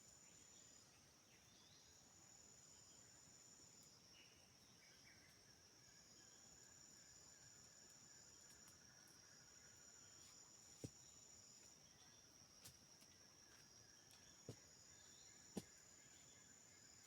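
Faint chorus of forest insects: a steady high-pitched drone with a higher note that comes and goes, and a few short sharp clicks in the second half.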